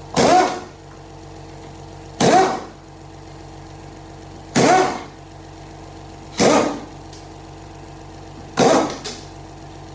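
Torx bit on an extension being pulled to loosen bolts in an automatic transmission case: five short loud bursts about two seconds apart, one per pull, over a steady hum.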